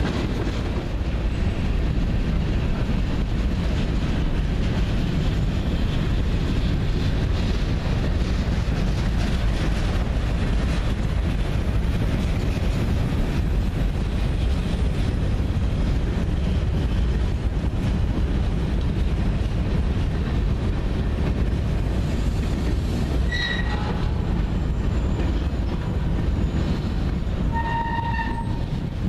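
Freight train cars, empty centerbeam flatcars and covered hoppers, rolling past on steel wheels with a steady heavy rumble. Brief wheel squeals sound twice near the end.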